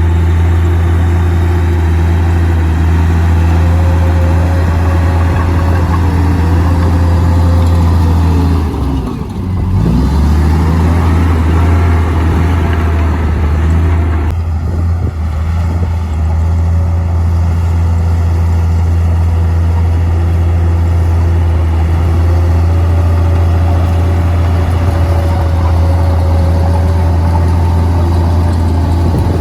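Komatsu D58P bulldozer's diesel engine running steadily at working speed, with a brief drop in engine speed about nine seconds in before it picks back up.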